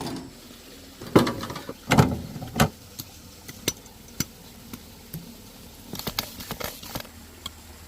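A series of knocks and clatters: three heavier knocks in the first three seconds, then scattered light clicks and a quick run of small rattling clicks about six seconds in.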